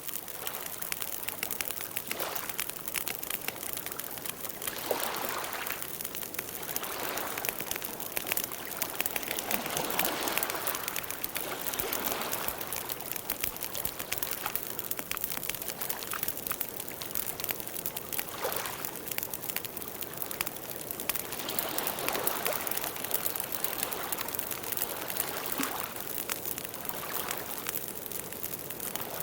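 Campfire burning, crackling with many small pops over a hissing flame noise that swells and fades now and then.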